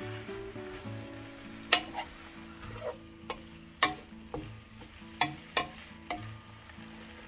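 Food sizzling as it is stir-fried in a pan, with a utensil scraping and knocking against the pan about seven times.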